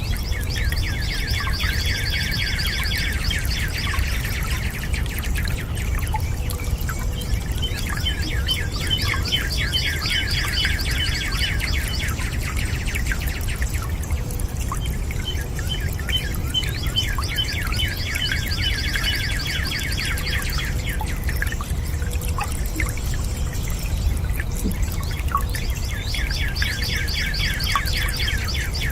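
Running water as a steady low rush, with a bird singing a rapid trill in bouts of about four seconds, repeated four times, a few seconds apart.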